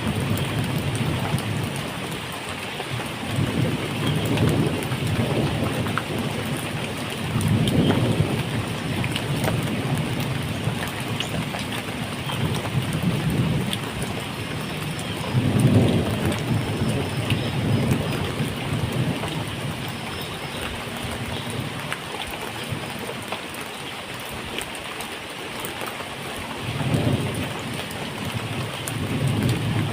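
Steady medium rain falling, with low rolls of thunder rumbling in and fading several times, the strongest about halfway through.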